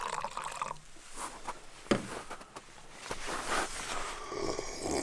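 Liquid pouring and dripping, with a sharp click about two seconds in.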